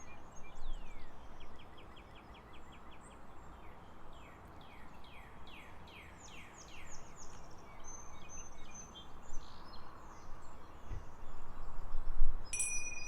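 Steady background noise with birds singing over it: a rapid trill, then a run of repeated down-slurred whistled notes. Near the end a steady high electronic tone starts suddenly: the timer going off as the five minutes end.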